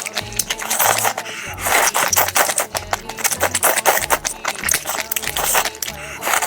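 Close-miked chewing and crunching of food, a rapid run of short crisp crunches, with background music and a steady bass line underneath.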